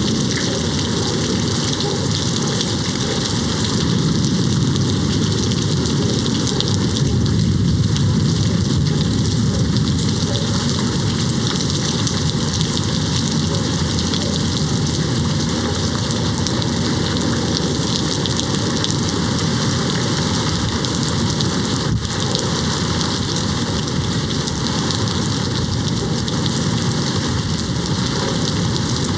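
Steady rain beating on a window, with a low rumble of distant thunder swelling for a few seconds about four seconds in.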